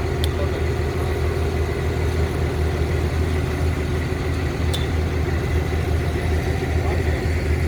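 An engine idling steadily with a deep, even hum, with a couple of faint clicks over it.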